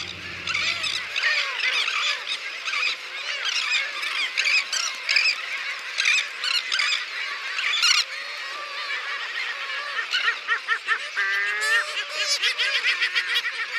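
Dense chorus of a seabird nesting colony, Heermann's gulls and elegant and royal terns, calling over one another in many short, harsh, overlapping calls.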